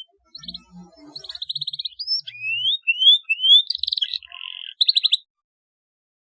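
Domestic canary singing: fast rolling trills alternating with rising whistled notes, breaking off about five seconds in.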